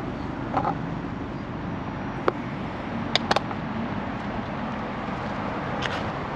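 A 1994 Subaru Legacy Turbo's EJ22T turbocharged flat-four running steadily at idle through its stock exhaust, with no revving. A few short, sharp clicks sound over it, the loudest about three seconds in.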